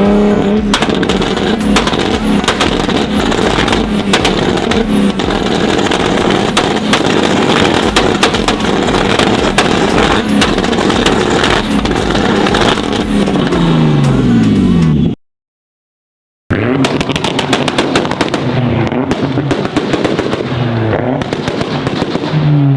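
Sports car exhaust crackling and popping on the overrun: a dense stream of sharp pops over the engine note as the revs sweep. It cuts out for about a second halfway through, then another bout of revving and popping follows.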